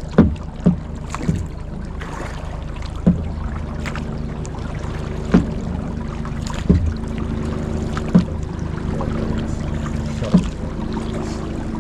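Tandem kayak being paddled: a series of short knocks from the paddle against the hull, irregularly spaced about one to two seconds apart, over a steady low hum.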